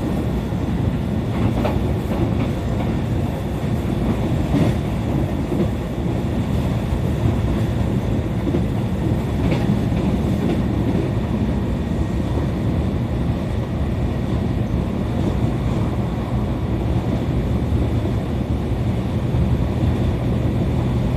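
E531 series electric commuter train running at speed, heard from inside the car: a steady rumble of wheels on rail with a few faint clicks from rail joints.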